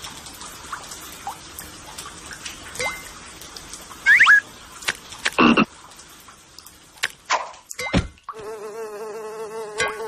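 Frog-like croaking calls, several short loud ones and then a longer wavering trill near the end, over a steady insect chorus.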